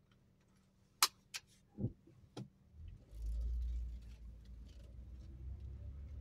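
A few sharp clicks and a light jingle, as of keys being handled, then a steady low rumble sets in about three seconds in, loudest for about a second before settling lower.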